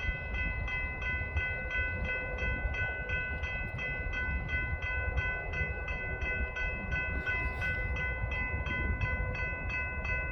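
Railroad grade-crossing bell ringing rapidly and evenly, about three strokes a second, over a low rumble.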